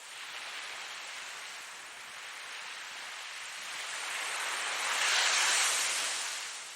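Ocean waves breaking: a rushing hiss of surf that swells to a peak about five seconds in, then draws back.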